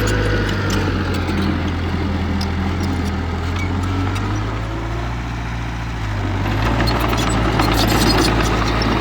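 Diesel engine of heavy earthmoving equipment running steadily. It eases off slightly around five seconds in, then builds again, with a run of clicks and knocks near the end.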